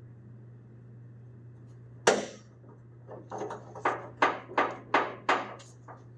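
Sharp knocks, as in hands-on work pulling apart an old pickup: one loud knock about two seconds in, then a run of about seven knocks at roughly three a second.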